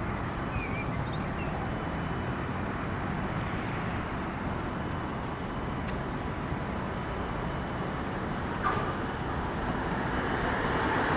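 Steady rushing wind and rolling noise from a bicycle ride picked up by a handlebar-mounted camera, with a couple of faint clicks.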